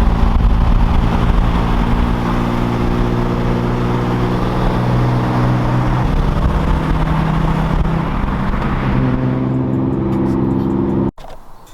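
Car engine running steadily, its pitch shifting a couple of times, then cutting off abruptly near the end.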